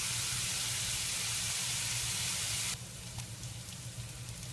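Onions and garlic sautéing in a cast iron pan: a steady sizzle that drops suddenly to a quieter crackle a little under three seconds in.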